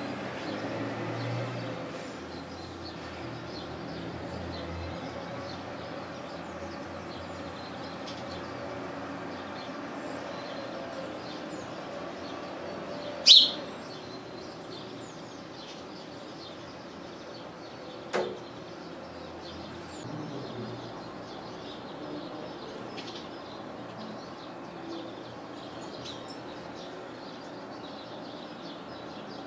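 Small songbirds chirping and calling over a steady outdoor background. There is a sudden sharp loud sound about 13 seconds in and a smaller one about 18 seconds in.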